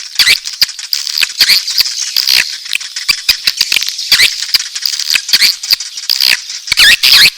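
Edible-nest swiftlet calls: a dense, loud chatter of rapid clicks, buzzy chirps and twitters, mixing calls of adult swiftlets in breeding mood with the calls of chicks.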